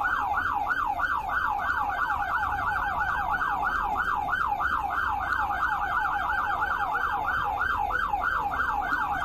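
Police car siren in fast yelp mode, its pitch sweeping up and down about four to five times a second, held steady throughout.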